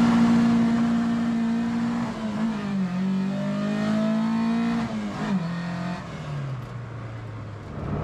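Ford Escort Mk2's engine heard from inside the cabin, pulling away and accelerating through the gears. The engine note climbs and drops at a gear change about two and a half seconds in. It climbs again, drops at a second change about five seconds in, then settles to a lower, quieter note near the end.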